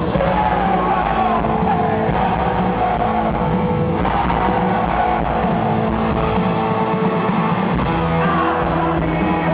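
Live rock music: a band with electric guitar playing, and singing over it.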